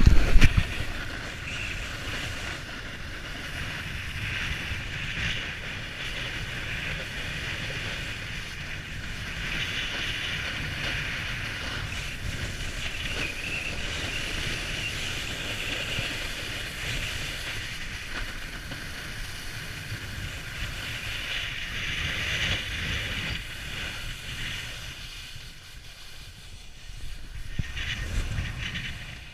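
Strong wind buffeting the microphone, a low rumble over a steady sliding hiss from the downhill run. There is a loud knock right at the start, and things ease briefly near the end.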